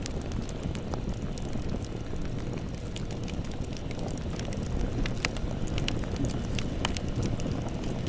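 Campfire burning: frequent irregular crackles and pops over a steady low rumble.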